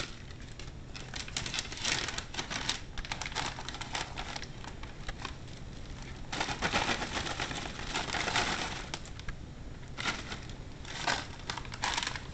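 Plastic sandwich bag crinkling and rustling as dry croutons are poured and shaken into it, with many small clicks from the croutons, coming in irregular bursts.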